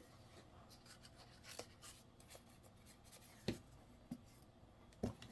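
Faint desk handling sounds: light rubbing and scratching, like pen or paper, with a few small taps and clicks, the sharpest about three and a half seconds in and two more near the end.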